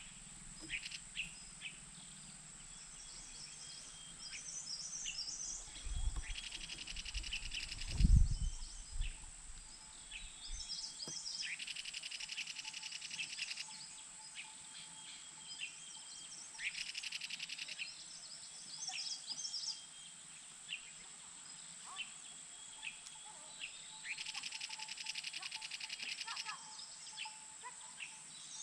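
Small birds chirping, with repeated bursts of rapid high trilling lasting about two seconds each, over a steady high whine. A few low thumps come about six to eight seconds in, the loudest at about eight seconds.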